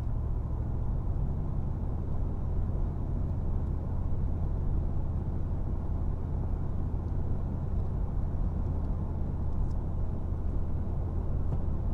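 Steady in-cabin drone of a Mercedes-AMG G63 driving along: a low, even hum from its twin-turbo V8 in sport mode, mixed with tyre and road noise, with no revving.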